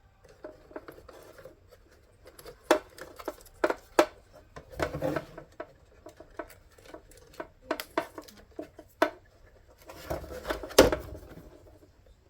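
Hands fiddling with a small plastic switch assembly, its wires and spring: a string of irregular light clicks and taps, with a few sharper ones.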